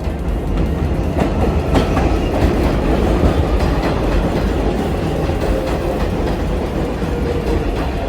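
New York City Subway local 7 train pulling into the station: a loud, steady rumble of wheels on rail with a few clacks over the rail joints, and a motor whine that slowly falls in pitch as it brakes from about five seconds in.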